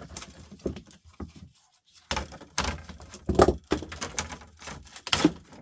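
Laptop parts being handled and pulled apart by hand: irregular plastic clicks, knocks and clatter, with a few louder knocks from about two seconds in.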